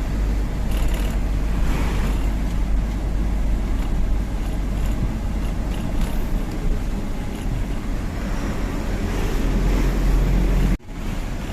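Laden Tata 1512 truck's diesel engine running steadily as it drives along the road, a low rumble mixed with road and wind noise. The sound cuts out abruptly for a moment near the end, then resumes.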